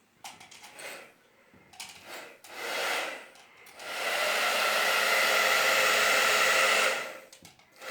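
Hand-held hair dryer being test-run after repair: it comes on in a few short bursts, then runs steadily for about three seconds, fan whine and rushing air, and cuts off suddenly near the end.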